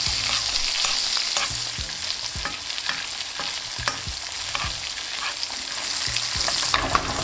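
Chicken breasts sizzling in hot melted butter and oil in a frying pan as they are basted with a metal spoon: a steady frying hiss with scattered clicks of the spoon against the pan.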